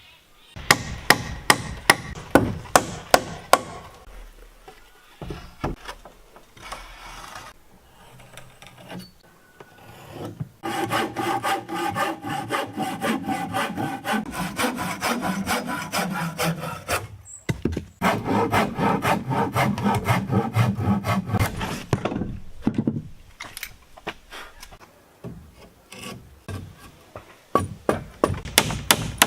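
Woodworking by hand: a quick run of sharp knocks in the first few seconds, then long stretches of sawing or rasping through wood in the middle, and more quick knocks near the end.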